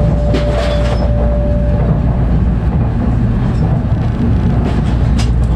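Steady low rumble of a Tokaido Shinkansen car running, heard from inside the cabin. The last held note of the onboard announcement chime fades out about two seconds in.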